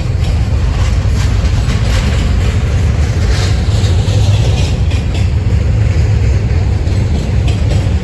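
A train passing close by: a steady low rumble of wheels on rail, with scattered clicks from the wheels over the track.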